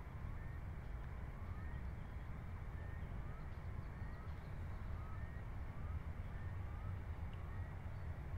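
A distant bird calling over and over in short rising notes, about two a second, alternating higher and lower in pitch, over a steady low rumble of outdoor ambience.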